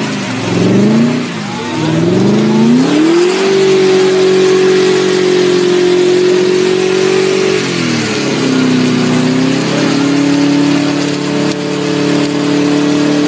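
BMW E30's engine revving hard during a burnout. The revs drop and climb back in the first few seconds and are then held high and steady. They fall about eight seconds in and settle at a lower, steady pitch.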